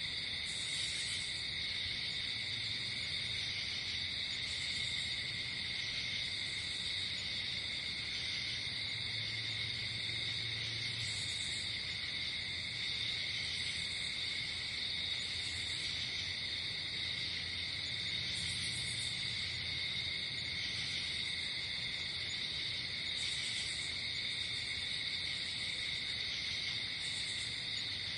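Night-time chorus of crickets trilling steadily, with short high-pitched chirps breaking in every few seconds over a faint low hum.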